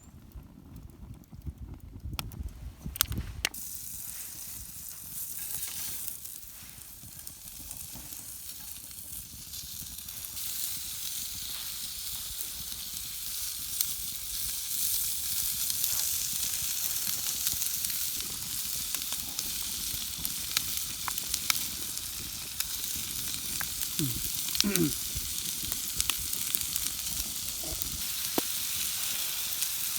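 Food sizzling as it fries in a pan, a steady hiss that builds over the first ten seconds or so and then holds, with a few knocks near the start.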